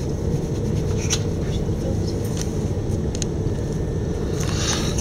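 Steady low rumble of an Electrostar electric multiple unit running at speed, heard from inside the carriage, with a few brief clicks.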